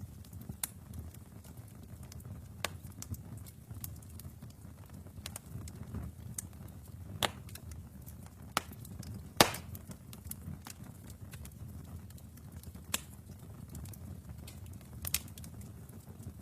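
Wood fire burning in a fireplace: a low steady rumble of flames with irregular sharp crackles and pops. The loudest pop comes about nine seconds in.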